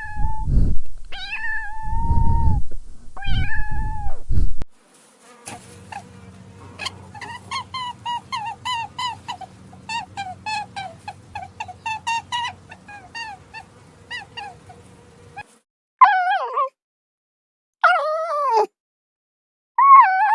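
Cats meowing: a few long meows, then a quick run of short mews lasting about ten seconds, then more long meows that waver in pitch near the end.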